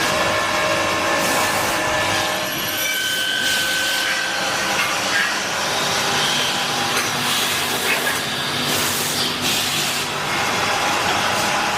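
Metal-cutting machine running steadily in a workshop, with a continuous scraping, grinding noise. Faint steady whining tones sit under the noise, and the high scraping swells and fades every second or two.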